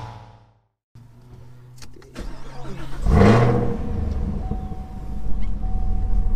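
Chevrolet Camaro ZL1's supercharged V8 running: its note rises sharply and falls back about three seconds in, then settles into a steady idle.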